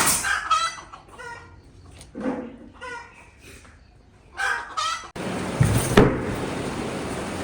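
Chickens calling, a series of short pitched calls. About five seconds in the sound cuts abruptly to a steady noise, with one sharp knock soon after.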